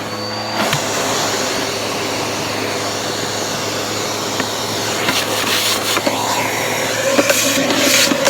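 Bissell vacuum cleaner running, used with its hose: a steady motor whine and rush of air. Near the end comes a run of short clicks and rattles.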